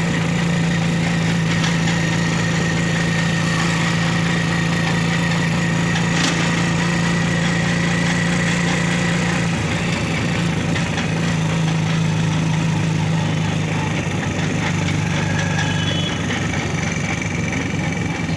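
A vehicle engine running steadily with a low, even hum, and a single click about six seconds in.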